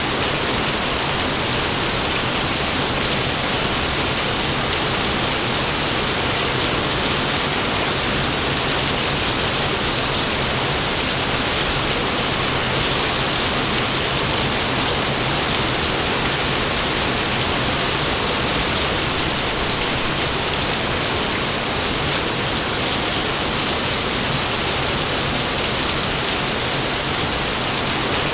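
Steady heavy rain falling, a dense even hiss with no thunder.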